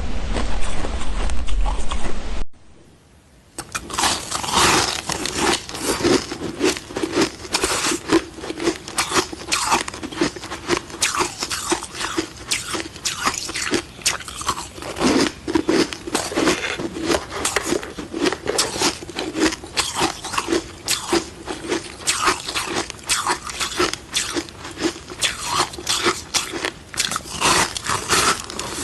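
A person biting and chewing ice sticks close to the microphone: a dense, irregular run of sharp crunches starting about three seconds in.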